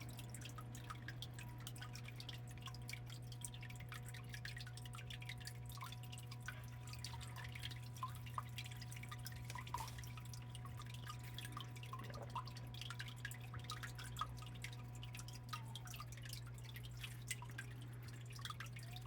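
Water dripping and trickling from a small stone waterfall into a biotope pond, many small drops falling continuously over a steady low hum.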